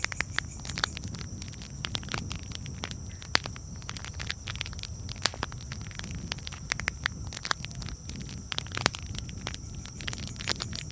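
Campfire crackling: irregular sharp snaps and pops over a steady low rumble, with a louder pop about a third of the way in and another late on.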